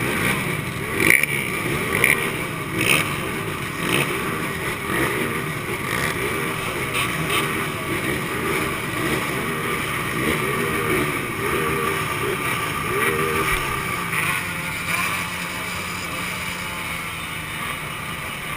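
Two-stroke motorcycle engines running, their revs rising and falling, with a few sharp pops in the first few seconds. In the last few seconds the engine sound settles to a steadier idle.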